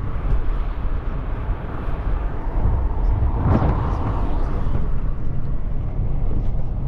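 Steady low road and engine rumble inside a moving car. About halfway through, a brief swell of noise rises and fades, like another vehicle going past.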